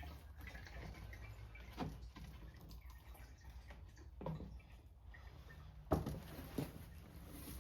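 A few light knocks and clicks of things being handled on a workbench, the loudest about six seconds in, over a faint low steady hum.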